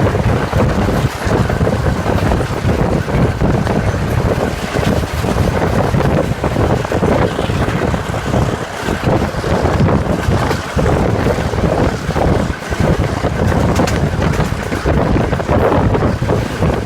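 Train running at speed, heard from on board: a loud, steady rumble of the Class M2c locomotive's EMD two-stroke diesel and the running gear, mixed with wind rushing past the microphone.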